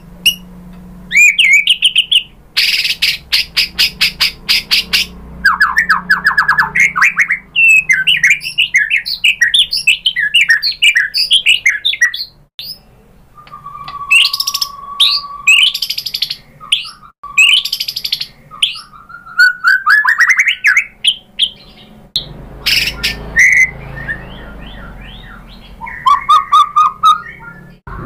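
White-rumped shama singing a loud, varied song of fast chattering trills, rising sweeps and rapid repeated notes, with a held whistled note about halfway through and short pauses between phrases.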